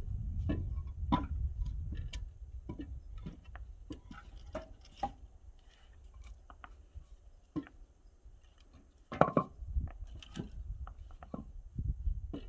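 Twigs and firewood being handled and pushed into a wood-burning firebox: scattered wooden knocks, snaps and clatters, with a louder cluster of knocks about nine seconds in.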